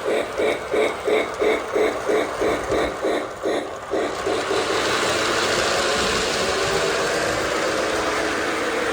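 O-gauge toy steam locomotive's RailSounds playing rhythmic steam chuffing at about three chuffs a second. The chuffing stops about four seconds in and gives way to a steady rushing hiss.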